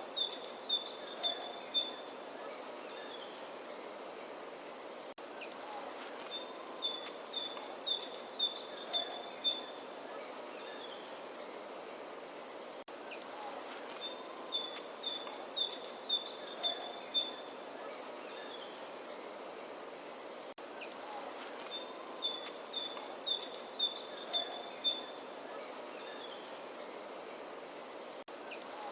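A songbird singing the same phrase again and again, about every eight seconds: a short high note sliding down, then a run of quick notes switching between two pitches. Behind it is a steady soft outdoor hiss. The repeats are identical, as from a looped birdsong recording.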